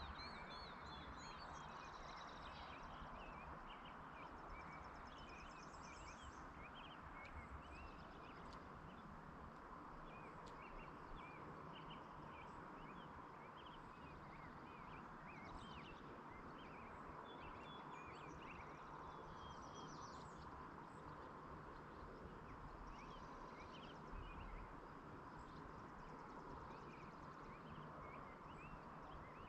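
Faint songbirds chirping and trilling, many short calls overlapping throughout, over a steady even background hiss.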